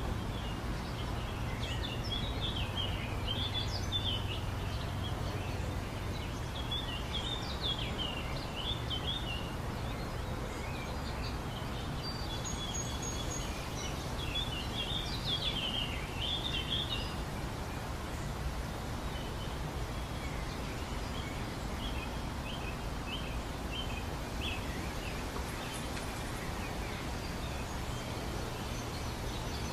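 Birds chirping over a steady low hum. The calls are busiest in the first half and sparser later.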